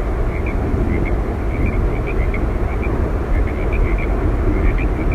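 Yosemite Falls rushing: a steady, loud noise heaviest in the low range, with many short, high chirps scattered through it.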